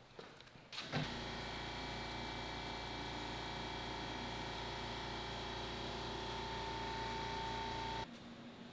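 An electric power tool's motor starts with a click about a second in, runs at a steady speed with an even hum and a faint whine, then cuts off suddenly about a second before the end.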